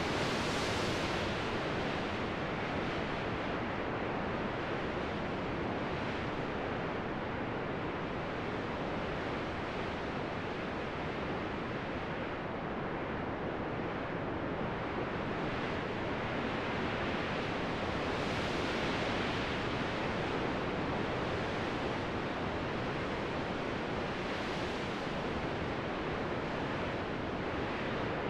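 Steady rushing wind during a snowstorm, its hiss swelling in brief gusts every few seconds.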